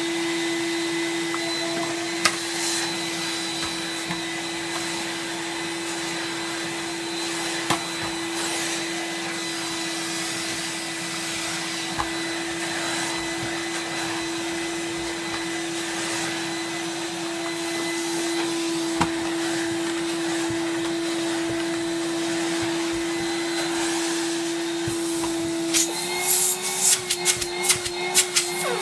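Numatic NV370 tub vacuum cleaner running with its hose fitted: a steady motor whine with strong suction noise. Near the end, a quick run of clicks and knocks, while the motor's pitch rises slightly and wavers.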